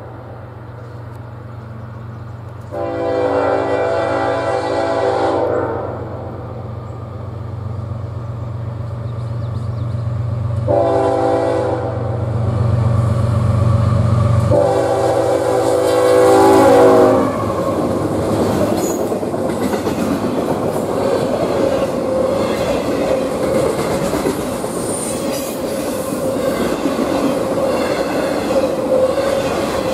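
A CSX freight train's GE diesel locomotive approaches, its engine growing louder, and sounds its air horn three times for a grade crossing. The last blast ends as the locomotive passes close by. After that, a long string of autorack cars rolls past with steady wheel clatter.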